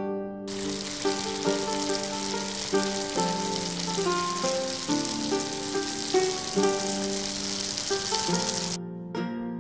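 Bhatura frying in deep oil in a wok: a steady sizzle that starts sharply about half a second in and cuts off abruptly near the end, over background music.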